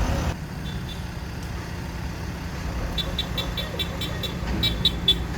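Steady low rumble of road traffic. About three seconds in comes a rapid run of short high-pitched chirps, roughly five a second.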